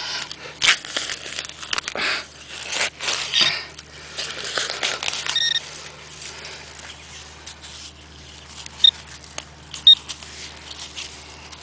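Hands digging and rummaging through wet sand and muck, with crunching scrapes over the first five seconds, while searching for a buried metal target. Then a metal detector beeps briefly about five seconds in, and twice more, short and sharp, near ten seconds.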